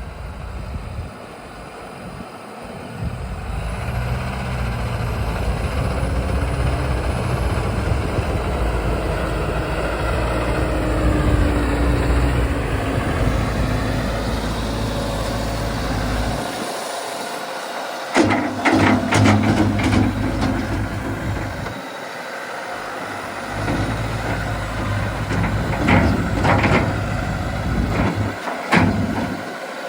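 A big farm tractor's diesel engine working under load as its front-end loader digs gravel, the engine note rising and falling. From about two-thirds of the way in come repeated sharp knocks and scrapes, in clusters.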